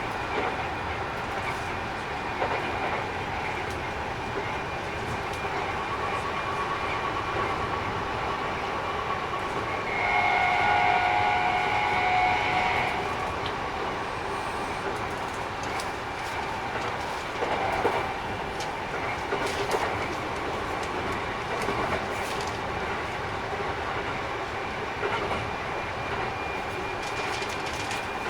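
Keikyu 1000 series train running, its Mitsubishi IGBT inverter drive whining steadily over the rail noise, a set the uploader finds a little noisier than others. A train horn sounds for about three seconds roughly a third of the way in, and a few rail-joint clacks follow.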